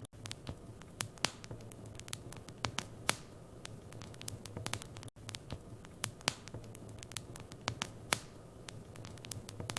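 Wood fire in a fireplace crackling: frequent irregular sharp pops and snaps over a steady low hum and hiss, with a brief dropout about five seconds in.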